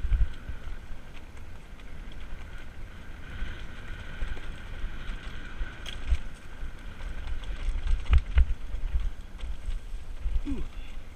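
M2S 750 W all-terrain e-bike riding over rough trail: wind buffets the microphone with a gusty low rumble over a faint steady motor whine. Two sharp knocks come close together about eight seconds in as the bike jolts over bumps.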